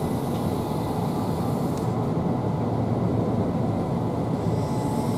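Interior running noise of a Keihan 800-series electric train: a steady rumble of the wheels on the rails, heard from inside the passenger car.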